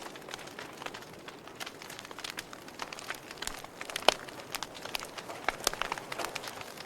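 Wood fire crackling in a fireplace: irregular sharp pops and snaps over a soft steady hiss, one louder snap about four seconds in.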